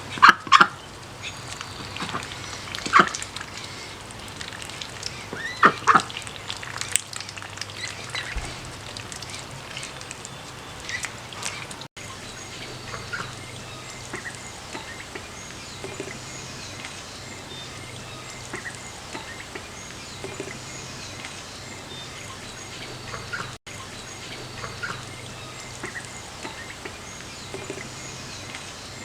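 Ducks calling: a few loud short quacks in the first several seconds, then softer scattered calls.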